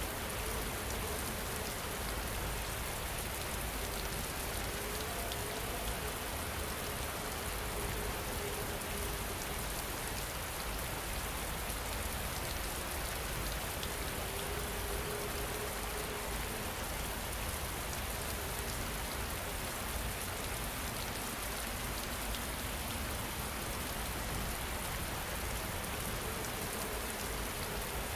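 Steady rain falling on a surface: an even, unbroken patter with no breaks.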